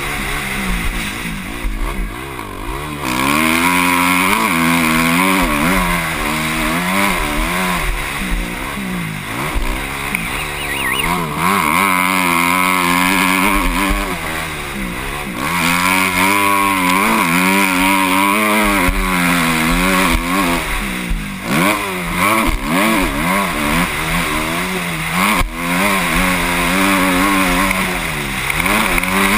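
Motocross bike engine heard from the rider's helmet, its pitch rising and falling over and over as the throttle is opened and shut around the track.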